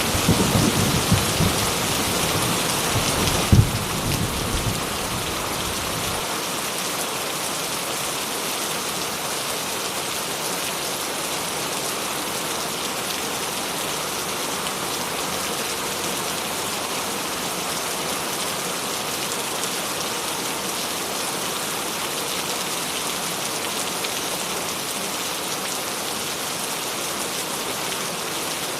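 Steady rain falling, an even hiss that holds throughout. In the first few seconds a deep thunder rumble dies away, with one sharper thunder crack about three and a half seconds in.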